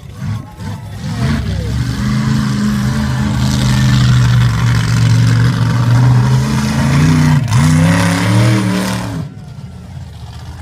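Monster truck engine running hard at high revs for several seconds. Its pitch dips and climbs twice near the end, then it drops back sharply.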